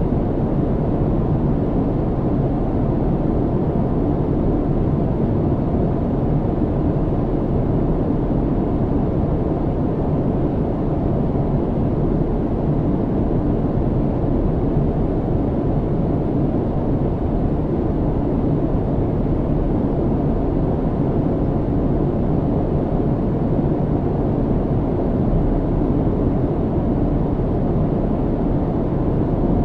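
Steady low rumble of an airliner cabin in cruise: jet engine and airflow noise heard from inside the cabin, even and unchanging.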